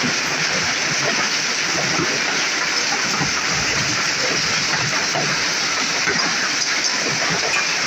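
Heavy thunderstorm rain falling steadily, a dense continuous hiss of water with many small patters and impacts.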